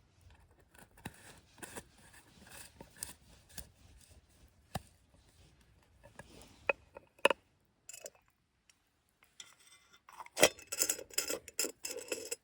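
Small handling sounds of camp gear: scattered clicks and scrapes, a couple of sharp clinks a little past halfway, and a busy run of clattering and rustling in the last two seconds.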